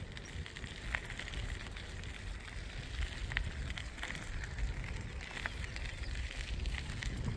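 Outdoor ambience: a low, uneven rumble like wind on the microphone, with scattered short ticks and crackles.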